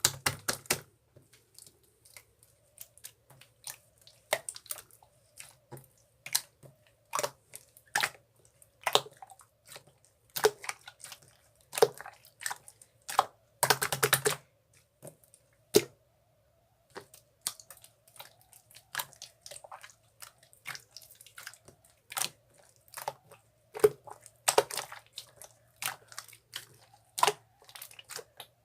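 Irregular sharp clicks and taps, a few a second, with a quick run of rapid clicks about fourteen seconds in, over a faint steady hum.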